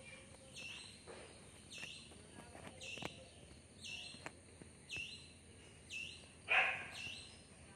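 A bird chirping over and over, one short high chirp about every second, with one louder, fuller sound about six and a half seconds in.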